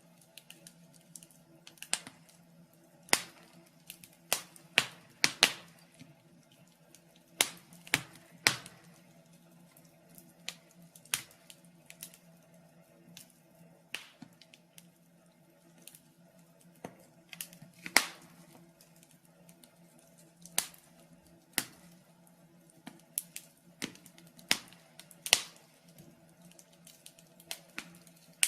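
Wood fire in a fireplace crackling: irregular sharp pops and snaps about once a second, some much louder than others, over a low steady hum.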